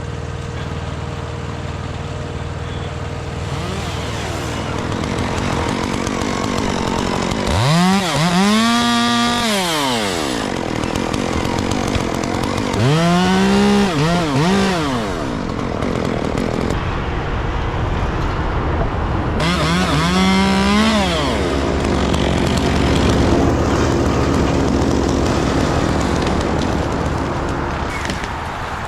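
Gas chainsaw revved three times, each time rising in pitch and then falling away as it cuts, over a steady rumble of engines and traffic.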